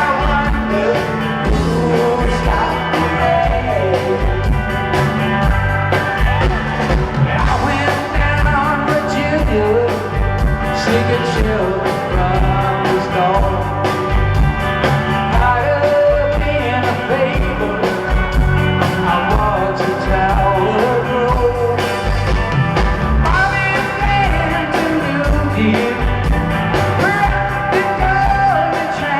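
Live rock band playing a mid-tempo song with a steady beat, electric guitars and a lead vocal.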